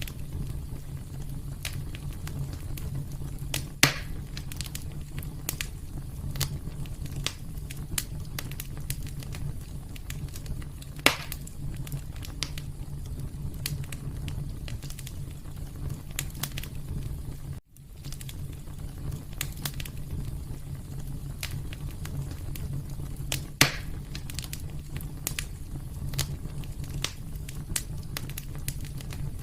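Fire crackling in a fireplace: a steady low rumble of burning with frequent small pops and three louder sharp cracks. The sound cuts out for a moment about two-thirds of the way through.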